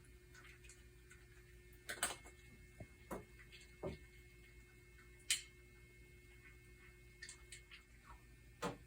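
Irregular light clicks and taps over a faint steady hum, a dozen or so in all, with the sharpest about two seconds in, halfway through and near the end.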